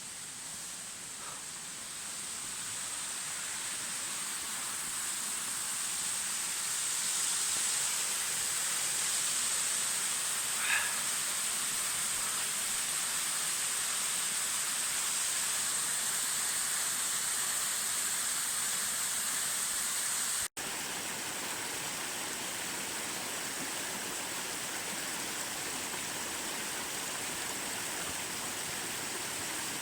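Steady rush of water from a mountain stream and its small waterfalls, an even hiss that swells a little in the first few seconds and breaks off for an instant about two-thirds of the way through.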